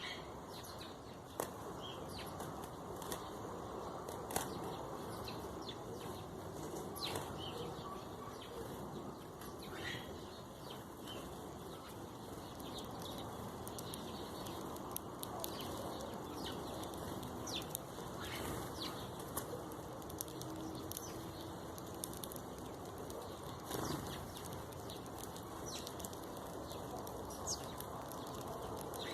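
Birds calling in many short chirps over a steady rustling noise, with scattered sharp clicks.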